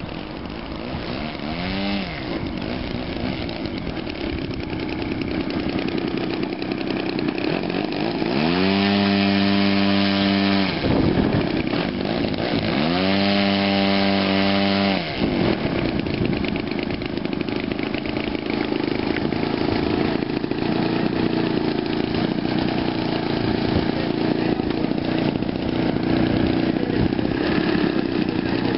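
Large gasoline engine of a giant-scale RC Extra 330L model plane running. It is opened up to a high, steady pitch twice for a couple of seconds each, with a short rev near the start, and otherwise runs at a lower, steady speed.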